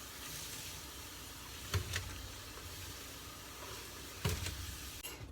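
Two brief clicks, about two and a half seconds apart, over a steady low hiss: the wires being pulled off a gas furnace valve.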